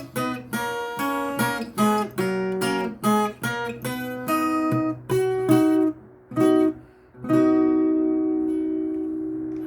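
Viola caipira playing the closing instrumental phrase of a sertanejo song: a run of picked and strummed chords, then a final chord about seven seconds in that rings on and slowly fades.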